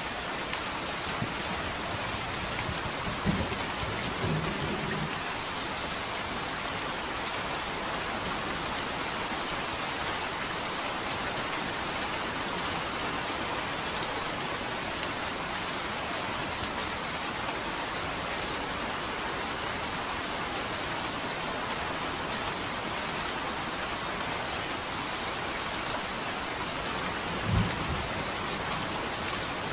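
Steady rain falling, an even hiss throughout. Brief low thunder rumbles come a few seconds in and again near the end.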